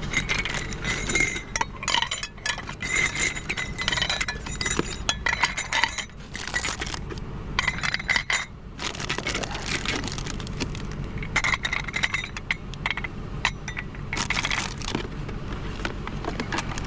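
Small glass mason jars clinking and knocking against each other and other items as they are picked up and moved: many short clinks with a brief ringing, in irregular clusters, over a steady low hum.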